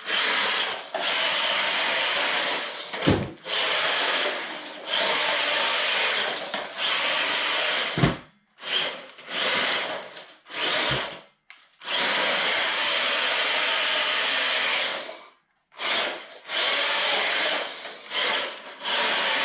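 Brushed 370 electric motor of a JJRC Q123 1/16-scale RC drift truck whining in repeated throttle bursts of one to three seconds, with short pauses between them, as it drives around on a smooth indoor floor on drift tyres. Three short thumps come about three, eight and eleven seconds in.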